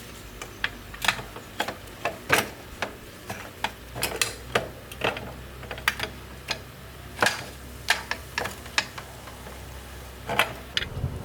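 Irregular sharp clicks and light knocks of hand tools and small metal parts being handled in motorbike repair work, one or two a second, over a faint steady low hum.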